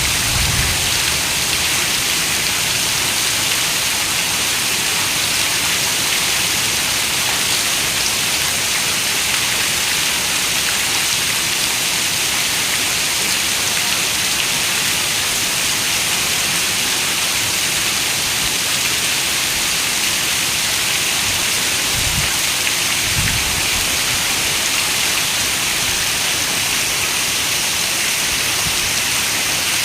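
Heavy rain falling steadily on a window, a dense even hiss, with a couple of brief low thumps about two-thirds of the way through.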